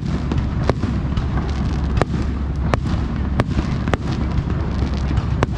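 Aerial fireworks display: a continuous low rumble of shell bursts, with about six sharp, loud bangs cracking out through it at irregular intervals of half a second to a second and a half.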